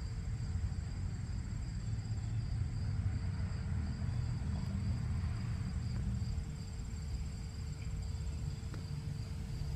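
Steady outdoor ambience: a continuous high insect drone, like crickets, over a low rumble.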